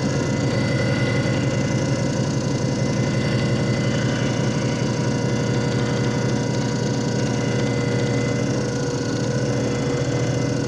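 JFJ Easy Pro disc repair machine running: its electric motor hums and whines steadily at an even pitch.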